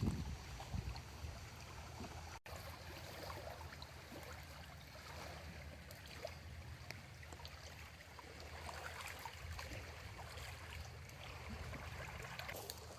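Faint water sounds, trickling and lapping with scattered small splashes over a low steady rumble, broken by a momentary gap a couple of seconds in.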